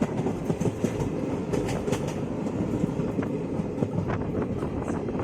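Kanchankanya Express running along the track, heard from on board: a steady rumble of wheels on rail with scattered clicks and rattles.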